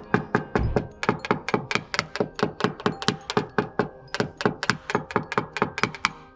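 Rapid light taps on a car's sheet-metal body panel, about five or six a second and evenly spaced, each with a short metallic ring: paintless dent repair tap-down work, knocking down the high spots around a dent.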